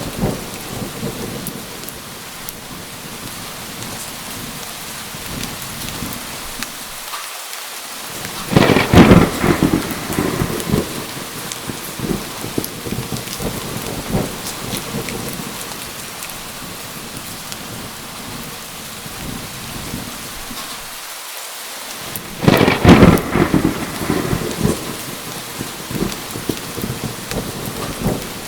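Steady heavy rain with two thunderclaps, about nine seconds in and again about fourteen seconds later. Each is a loud sudden crack that rumbles away over a couple of seconds.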